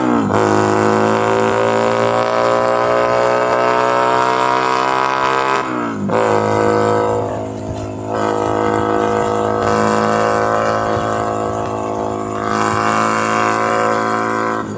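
Keeway SCR 250V motorcycle engine and exhaust under way, pulling up through the gears. The pitch drops sharply at an upshift right at the start and again about six seconds in, then climbs and settles to a fairly steady run.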